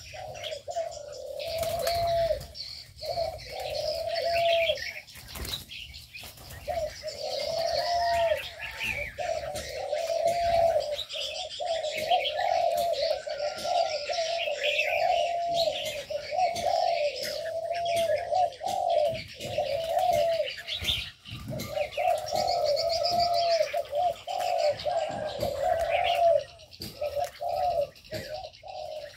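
Several aviary doves cooing over one another in repeated short arched phrases, with smaller birds chirping higher up.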